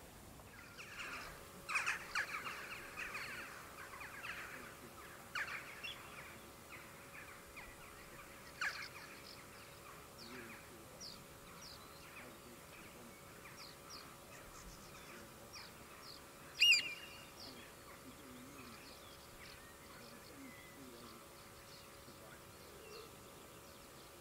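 Wild birds calling: a dense burst of chattering calls in the first few seconds, then scattered short high calls, with one loud, sharp call about two-thirds of the way through.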